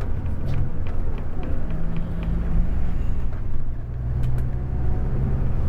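Scania K410 coach heard from inside the cabin while under way: a steady low engine and road rumble with a faint held engine tone. Small clicks and rattles are scattered through it.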